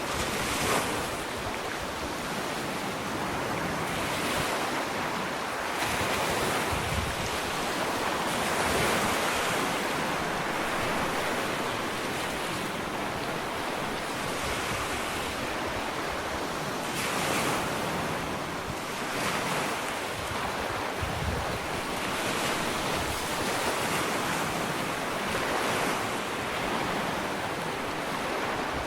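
Ocean waves breaking and washing up a sandy beach, a continuous surf hiss that swells and eases every few seconds.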